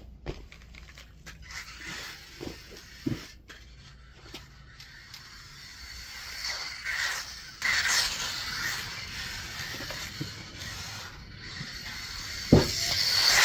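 Hobby Plus Speck-B 1/24-scale RC truck with its stock 63-turn brushed motor being driven, the motor whining up and down with the throttle and the tires scuffing on the ground, with a couple of short knocks.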